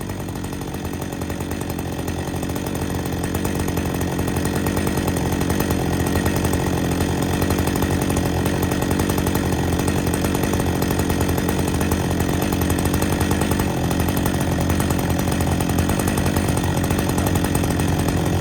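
Chainsaw running steadily, growing louder over the first few seconds and then holding, as it cuts through a wooden log.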